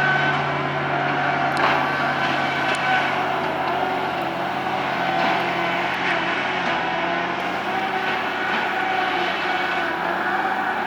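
An engine of tree-removal equipment running steadily, its pitch wavering slightly, with a few sharp knocks.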